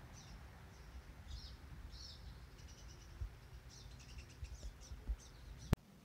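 Small songbirds giving short, high chirps, scattered at first and coming thicker in the second half, over a faint low rumble. One sharp click near the end.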